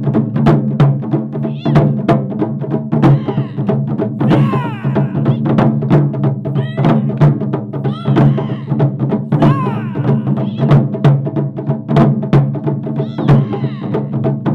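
Japanese taiko drums played by an ensemble: a fast, steady run of strikes, with short sliding pitched calls over it now and then.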